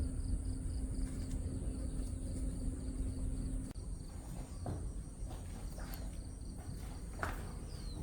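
Insects chirring steadily at a high pitch over a low outdoor rumble, with a low steady hum that stops about halfway through.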